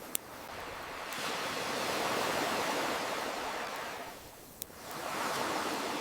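Ocean waves washing in, a surge of surf that swells, then ebbs about four seconds in before the next wave builds. A campfire crackles over it, with two sharp pops: one just after the start and one in the lull between waves.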